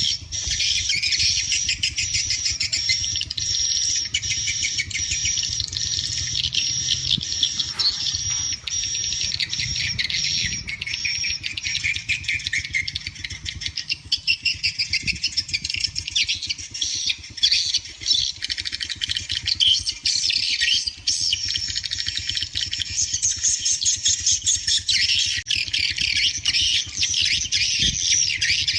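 Swiftlet calls: dense, continuous rapid chirping and twittering, over a steady low rumble.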